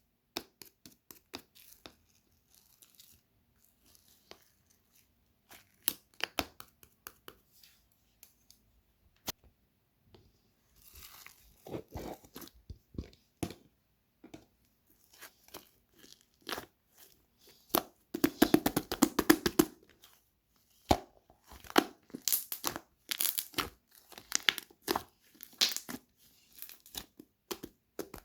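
Orange slime being pressed, stretched and squeezed by hand, giving sticky clicks and popping air bubbles. The sounds are scattered at first and build into dense crackling bursts in the second half.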